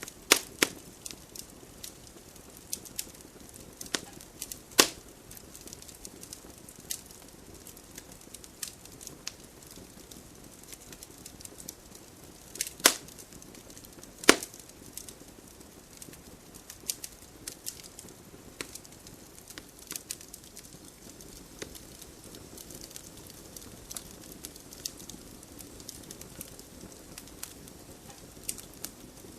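Wood campfire burning with a low steady hiss and irregular crackling. A few louder, sharp pops stand out, the biggest about 13 and 14 seconds in.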